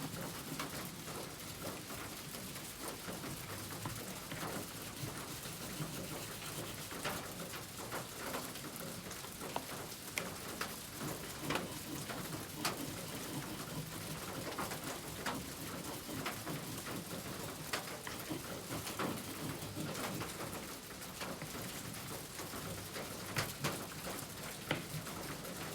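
Steady rain with scattered drips and taps, and pigeons cooing now and then underneath.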